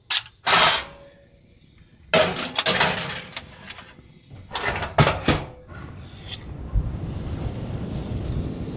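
A run of sharp knocks and clattering, as cookware and baking things are handled in a small camper kitchen. About six and a half seconds in, a steady rush of noise with a high hiss sets in and keeps going.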